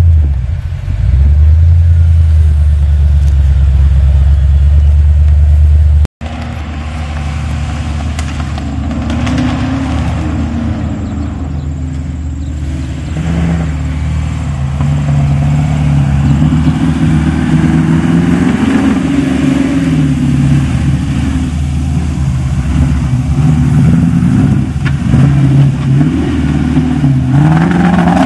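Off-road 4x4 engines: first a loud, steady low drone, then, after a cut about six seconds in, a 4x4's engine revving up and down repeatedly as it drives the track.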